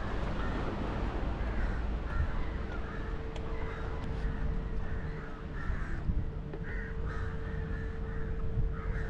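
Birds calling again and again, short calls every half second to a second, over a steady low rumble; a faint steady hum joins about two seconds in.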